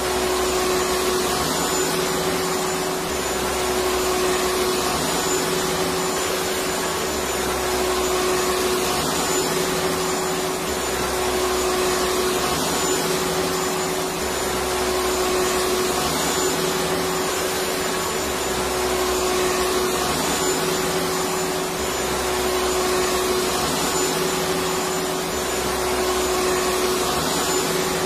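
Electric vacuum cleaner running continuously: a steady whooshing motor noise with a constant hum, and a low rumble that comes and goes every few seconds.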